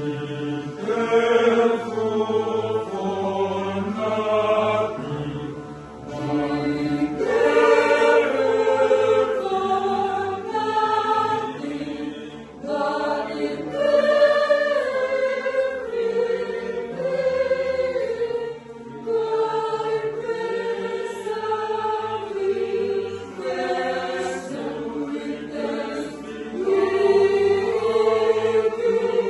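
Choir singing in sustained, overlapping voices, phrase after phrase with short breaks between them.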